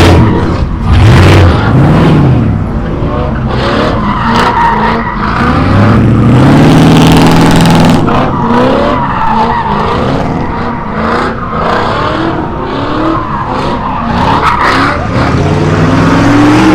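Car engines revving hard, the pitch climbing and falling again and again, with tires squealing and skidding on pavement, as in donuts or burnouts.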